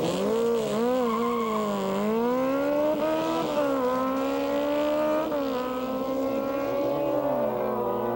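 Motorcycle engine accelerating hard in a drag race. Its pitch wavers, then climbs and drops back at gear changes about halfway through and again a couple of seconds later.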